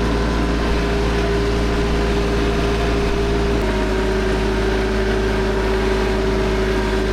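TYM 3515H compact tractor's diesel engine running steadily, its note shifting a little about halfway through.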